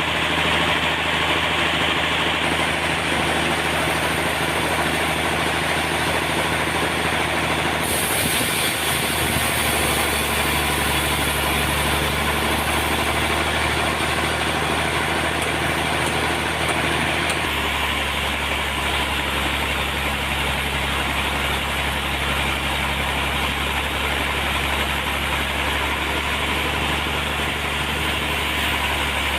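Sawmill engine running steadily, its low note shifting about 8 seconds in and again about 17 seconds in.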